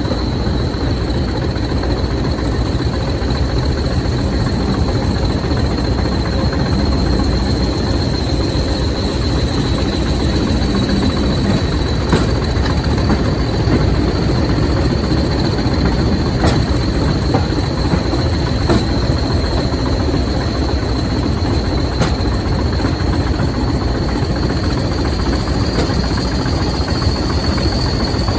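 Diesel-hauled train running steadily, with a dense low engine and rail rumble and a high-pitched whine that holds throughout and rises slightly near the end. A few sharp clicks are scattered through it.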